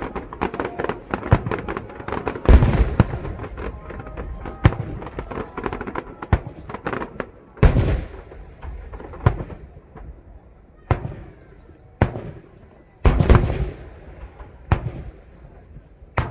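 Aerial fireworks bursting: a dense run of crackling and popping mixed with heavy booms, then thinning out to single loud booms, each with a short echoing tail, about every second or two.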